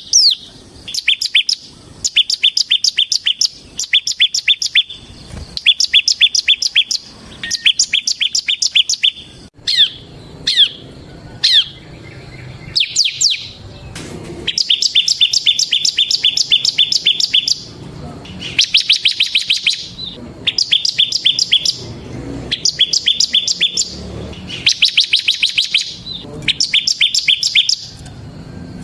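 Bar-winged prinia (ciblek) singing its fast, drilling 'ngebren' song: repeated bursts of rapid, high trilled notes, each lasting a second or two with short pauses between. A few single down-slurred notes come about ten seconds in.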